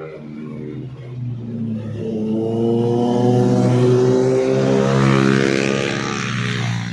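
Motorcycle engine accelerating, its pitch rising and the sound growing louder over the first few seconds, then fading away near the end.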